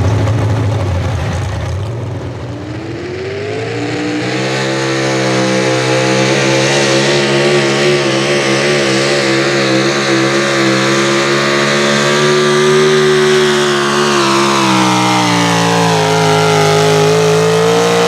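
Pulling truck's engine revving up as its run begins, then held at high revs with a wavering pitch. Over the last few seconds the revs sag steadily as the engine is pulled down under load.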